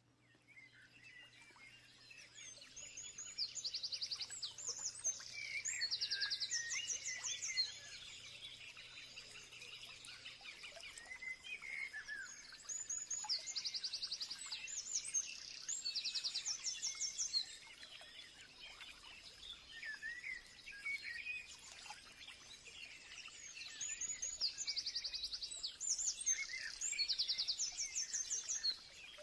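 Songbirds chirping and singing in rapid, high trills. The same busy burst of song comes back about every ten seconds, three times over, with quieter chirping in between, over a faint steady hiss.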